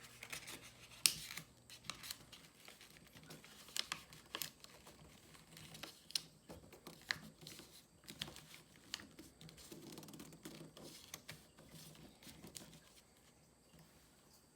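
Sheet of origami paper being folded and creased by hand: scattered rustles and sharp crinkling clicks, loudest about a second in and dying away near the end.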